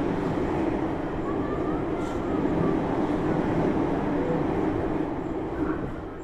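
Steady rail rumble heard from inside a standing Tobu Tojo Line commuter car, most likely another train running past on the next track, easing off near the end.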